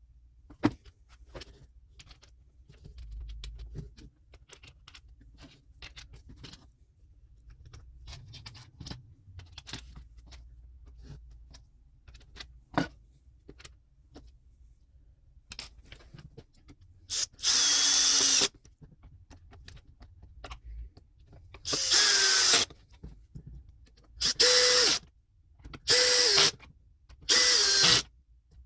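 Grunder GY2191 18V cordless chainsaw's electric motor and chain run in five short bursts of about a second each, the motor whining up and cutting off between trigger pulls. Before them come light handling clicks and knocks.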